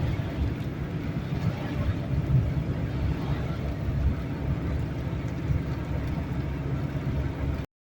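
Steady low rumble of a car driving on a highway, heard from inside the cabin. The sound cuts out suddenly near the end.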